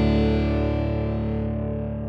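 Background music: a distorted electric guitar chord held and ringing out, slowly dying away.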